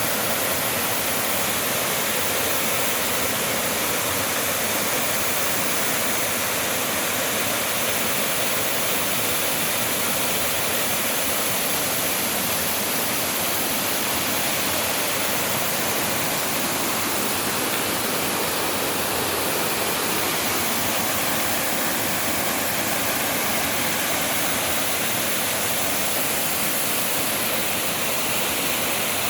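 Waterfall: water falling and rushing in a steady, loud, unbroken roar.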